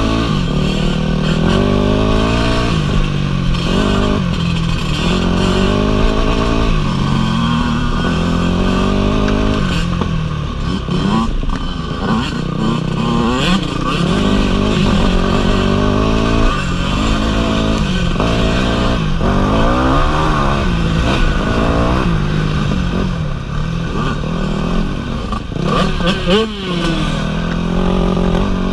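Dirt bike engine being ridden along a trail, its pitch rising and falling over and over as the throttle is opened and closed and the gears change.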